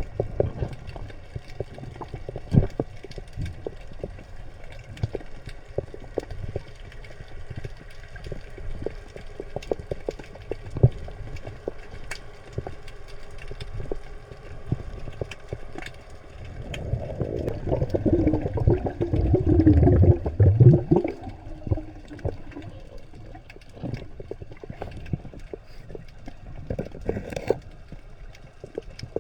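Underwater sound: scattered sharp clicks and crackles over a low rumble, with a louder bubbling, gurgling stretch of about four seconds a little past halfway.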